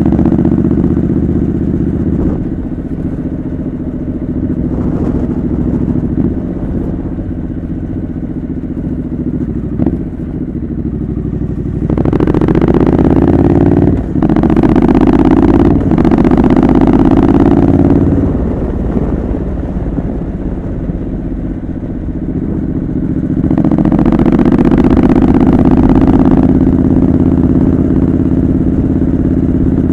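Triumph Scrambler 900's parallel-twin engine through a homemade exhaust, on the move. It runs steadily, then accelerates with rising pitch about twelve seconds in, with two short breaks in the sound as it shifts up. It eases off, then pulls harder again a few seconds before the end.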